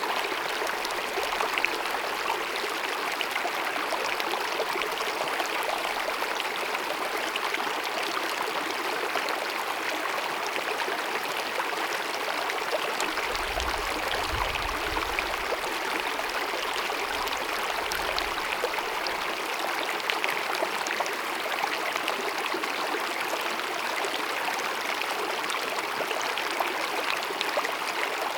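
A small mountain meadow stream babbling and cascading in a steady, even rush of water.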